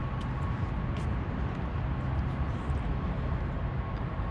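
Steady outdoor background noise dominated by a low rumble, with a faint steady high tone running through it and a few faint ticks.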